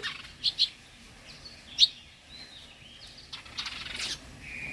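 Small birds chirping at a feeding spot: scattered short, high chirps from several birds, the sharpest one about two seconds in and a quick cluster near the end.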